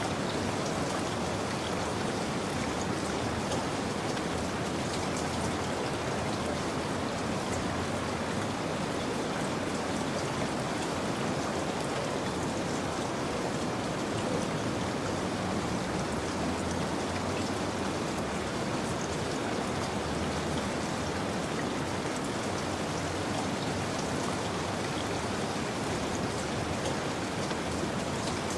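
Steady rain falling, a continuous even patter of drops on a surface.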